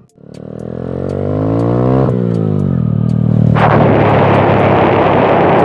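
Motorcycle engine revving up with a rising pitch, which drops back about two seconds in. From about halfway on, a loud, rough rushing noise covers the engine.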